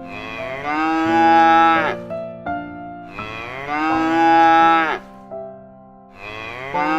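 Cow mooing: two long moos of about two seconds each, their pitch dropping as each ends, and a third moo beginning at the very end. Simple keyboard music plays in the gaps between them.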